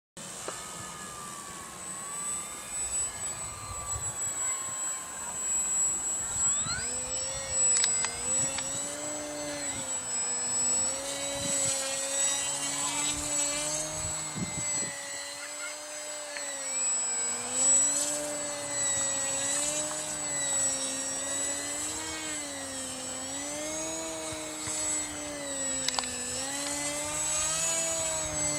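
Radio-controlled model airplane flying, its motor note rising and falling again and again as it passes back and forth, with a steady high whine over it.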